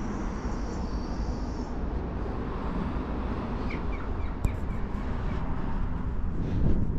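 Outdoor street ambience: a steady low rumble of traffic and wind on the microphone, with a quick run of short high chirps in the middle and a sudden swell of noise at the end.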